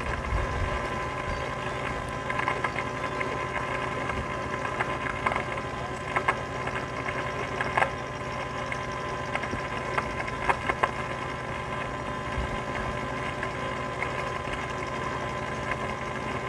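A steady mechanical hum, like an engine or generator running, with a few short clicks or knocks over it.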